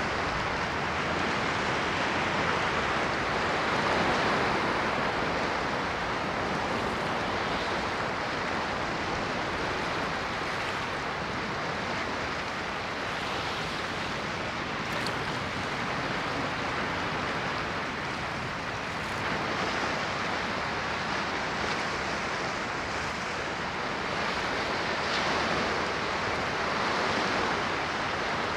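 Ocean waves washing onto a shore in a continuous rush of surf, swelling gently and easing off in slow surges.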